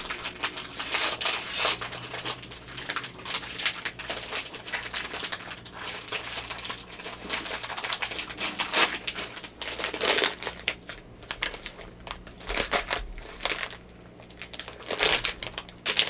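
Plastic wrapper of a Lenny & Larry's Complete Cookie crinkling and crackling close to the microphone as it is handled and opened, in irregular bursts that get louder about nine seconds in and again near the end.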